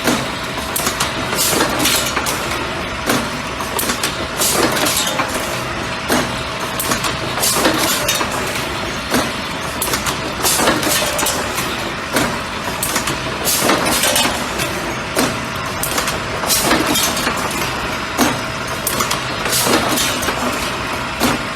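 Automatic bucket-handle making machine running, forming wire handles and inserting plastic grips: sharp clacks of its mechanism, roughly one or two a second, over a steady mechanical hum.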